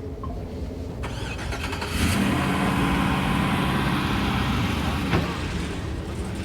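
A car engine running, growing louder about two seconds in and holding steady, with a brief sharp knock about five seconds in.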